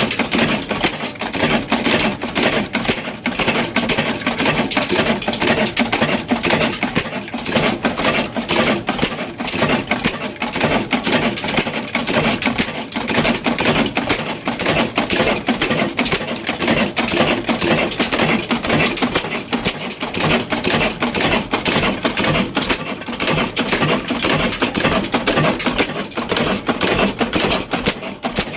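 Old diesel engine running with a steady, fast mechanical clatter.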